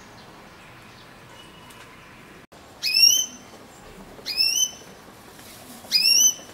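A bird calling loudly three times, about a second and a half apart. Each call is a short whistled note that rises and then holds its pitch.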